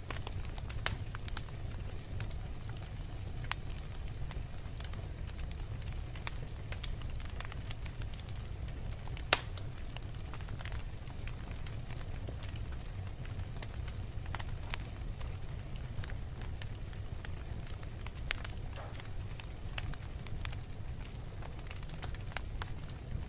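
Wood logs burning in a fireplace: a steady low rumble of the flames with scattered crackles, and one loud snap about nine seconds in.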